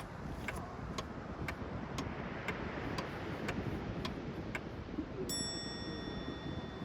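Steady ticking, about two ticks a second, then a single bell-like ding about five seconds in that rings on, over low wind rumble.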